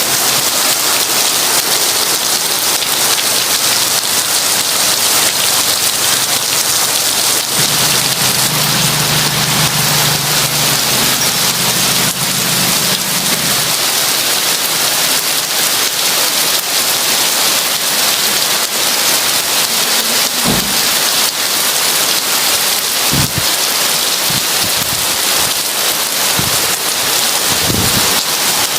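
Heavy rain pouring steadily, with a low roll of thunder from about 8 to 14 seconds in. A few short low thumps follow in the second half.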